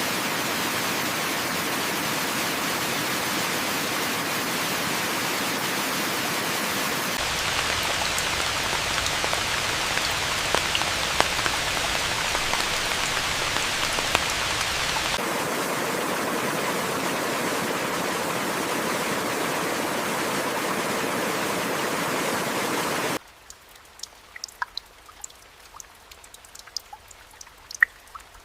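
Steady, heavy rain, in stretches that change abruptly about 7 and 15 seconds in. About 23 seconds in it cuts off to a quiet background with scattered small drips and ticks.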